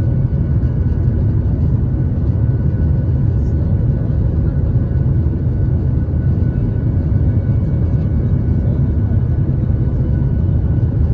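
Boeing 737-800's CFM56 jet engines running with a steady low rumble and faint steady whining tones above it.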